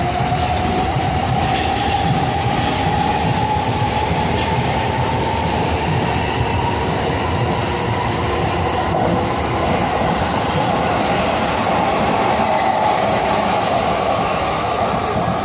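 Electric commuter trains running through a station, with a steady rumble of wheels on the rails. Over it a motor whine rises in pitch during the first few seconds and then holds level, as a train gathers speed.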